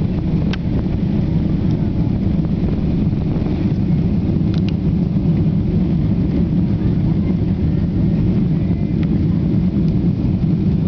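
Airliner's jet engines and airframe during take-off, a loud steady low rumble, with a few faint clicks.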